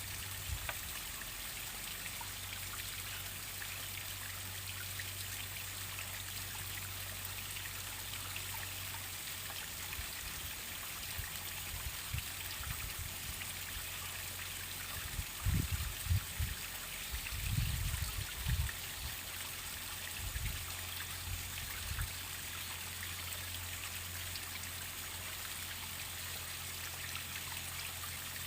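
Waterfall water splashing and trickling steadily with a fine, hissy texture. A few brief low thumps come a little past the middle.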